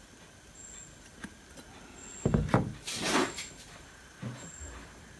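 Workbench handling sounds: two dull knocks a little over two seconds in, then a short scraping rustle and one softer knock.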